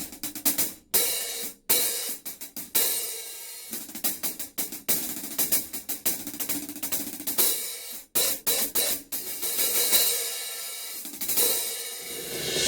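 Anatolian Turkish cymbals being struck on a drum kit: a run of separate hits, each leaving a bright ringing wash, with a few quick clusters of strokes and a long swelling crash wash near the end.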